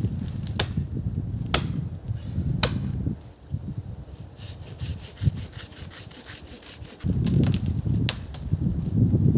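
Wood being sawn by hand in a steady rasping run, stopping about three seconds in and starting again at about seven seconds. Three sharp clicks fall about a second apart in the first stretch.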